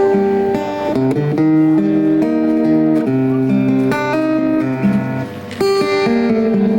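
Acoustic guitar playing an instrumental passage of chords that change about once a second, with a short drop in level about five and a half seconds in before the chords ring on.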